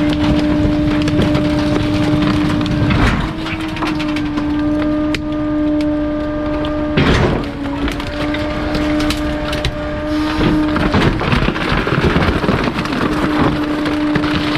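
A bulky-waste garbage truck's hydraulic compactor crushing refuse: sharp cracks and snaps of breaking material over a steady, non-stop hum, with louder breaks about three and seven seconds in.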